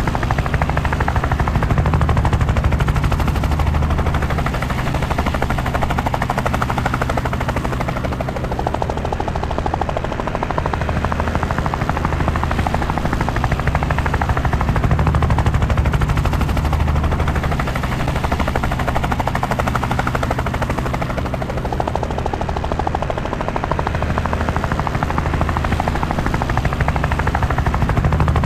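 Helicopter in flight, its rotor and engine running steadily with a rapid, continuous chop of blade beats; the loudness swells and eases every several seconds.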